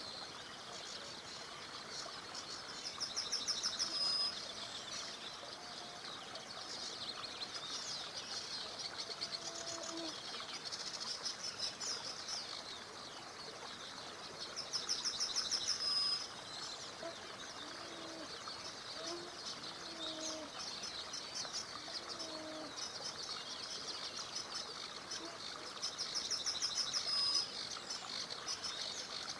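A chorus of songbirds singing together. One bird repeats a loud, fast trill three times, about twelve seconds apart, each ending on a sharp high note. A few soft low notes come in the middle.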